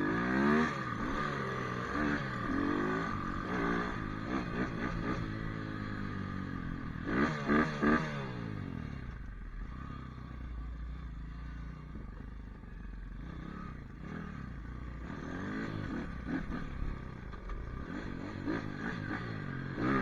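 Pit bike engine revving up and down repeatedly as the bike is ridden, with three quick throttle blips about seven seconds in.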